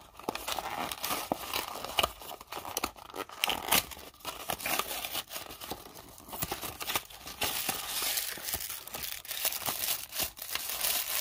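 Hands tearing open and crinkling the paper wrapping of a small toy package, a run of irregular crackles and rips that grows denser and louder over the last few seconds.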